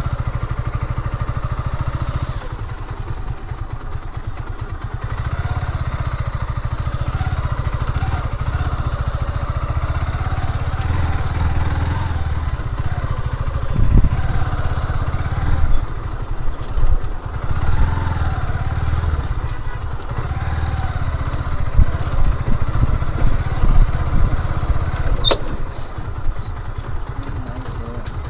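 Motorcycle running under way on a ride, with a heavy low rumble and its pitch wavering as it speeds up and eases off. Several sharp knocks come in the second half.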